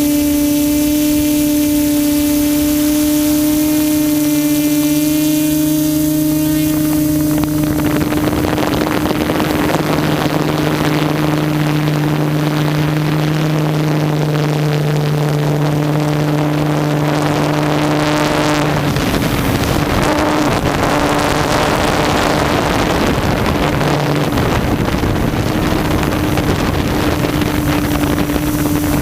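QAV400 quadcopter's electric motors and propellers humming steadily, the pitch shifting slightly now and then. From about seven and a half seconds in, wind rushing on the microphone joins the hum.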